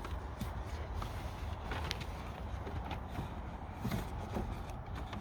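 Light clicks and rustling from handling a car's cabin air filter and its plastic housing, a few scattered knocks spread across the few seconds, over a steady low rumble.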